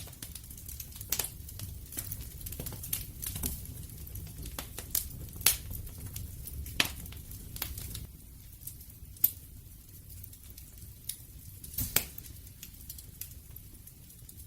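Wood fire crackling: irregular sharp pops and snaps over a low steady rumble. The pops come thickest in the first half, with a few louder snaps later.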